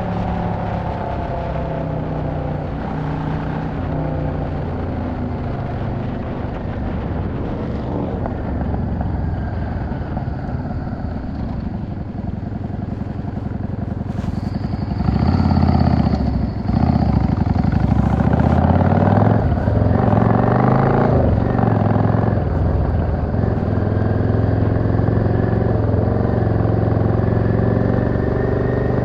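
Yamaha XVS 650 V-Star's air-cooled V-twin engine running on the move, steady at first, then louder from about halfway as it revs and changes pitch through gear changes before settling into a steady cruise. A brief high tone sounds about halfway through.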